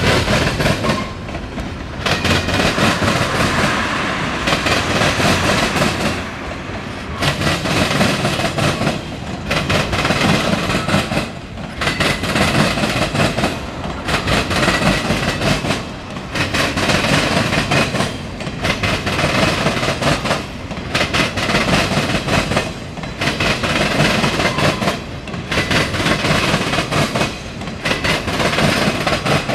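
Freight cars of a mixed freight train rolling past: steady wheel-on-rail rumble and clickety-clack, dipping briefly every two seconds or so as the gaps between cars go by.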